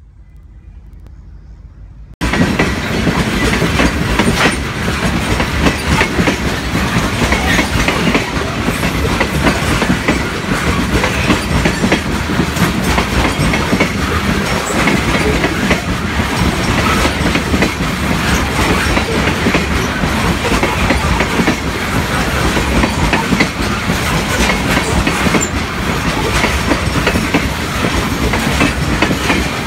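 Open-top freight cars of a gravel train rolling past close by: a steady rail noise with many quick wheel clicks, starting abruptly about two seconds in.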